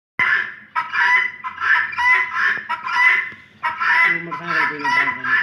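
Birds calling over and over in loud, clipped calls, roughly two a second, with short breaks between runs.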